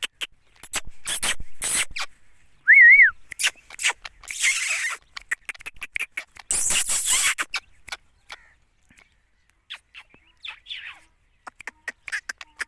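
A parrot gives one short whistle-like call that wavers up and down about three seconds in, among scattered clicks and scratches. Two louder rustling bursts follow, then only faint sparse clicks.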